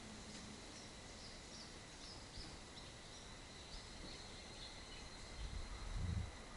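Faint, quick high chirps from a small bird, repeated over the first four seconds or so above a steady background hiss, with a low rumble near the end.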